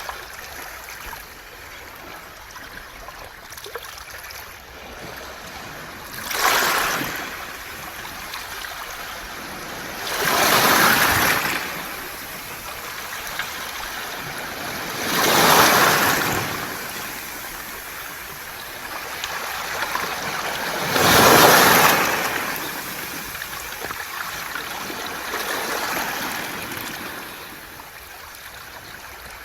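Waves washing in and out over a beach of round pebbles (mongdol), the stones rattling and hissing in the swash. Five surges come and go, about one every five seconds, over a steady wash.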